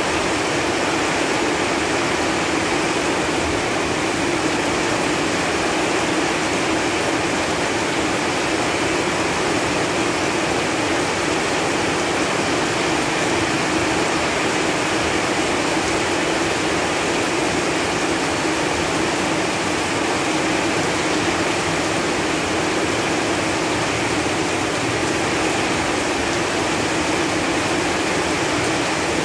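Steady rain falling on leaves: an even, unbroken patter of many drops, with no single louder hit standing out.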